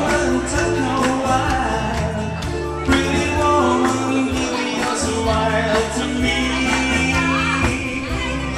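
Live band music with a steady drum beat and bass under sustained chords, perhaps with a faint voice.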